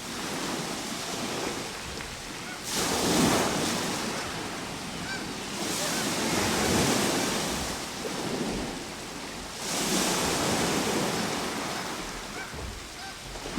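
Ocean surf: waves breaking and washing up the shore in slow surges, three in turn a few seconds apart, with a steady hiss of water between them.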